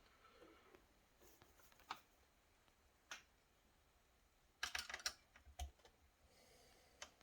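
Scattered light clicks and taps against near silence, with a quick cluster of several about four and a half to five seconds in: small plastic parts of a laptop being handled during a screen replacement.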